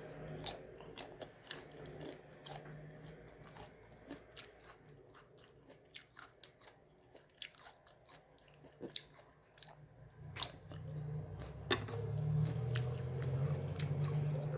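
Close-up crunching bites and chewing of a crisp, unripe mango: a scatter of sharp crunches throughout. A low hum rises under it in the last few seconds.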